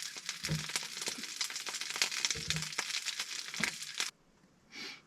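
Beef sausages sizzling and crackling in an oiled frying pan, with many small pops in the hiss; the sizzle cuts off suddenly about four seconds in, followed by a short, soft rustle.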